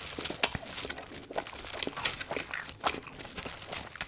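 Close-miked crunching and chewing of fried food, mixed with a pile of Popeyes french fries rustling as a handful is picked from it by hand: a run of irregular crisp clicks and crackles.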